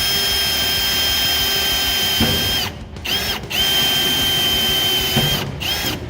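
Power drill running at a steady speed, drilling the mounting holes for a brake pedal assembly: one run of about three seconds, a brief blip, a second run of about two seconds, then another brief blip.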